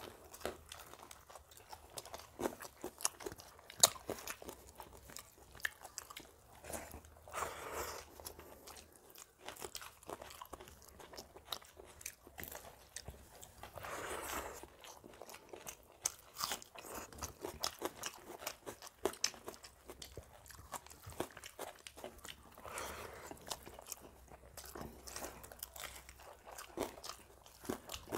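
Close-up eating sounds of people eating rice and fried brinjal with their hands: chewing and mouth smacks with frequent small clicks throughout.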